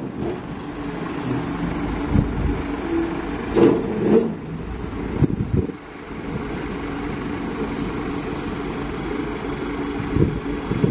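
Heavy diesel engine running steadily, with two louder knocks about three and a half and four seconds in.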